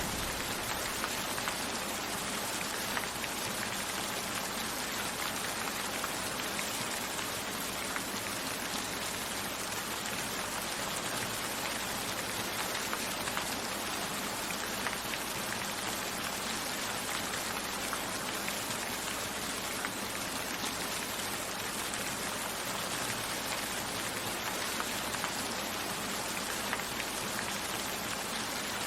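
Steady rain falling, an even hiss and patter of many drops that keeps the same level throughout.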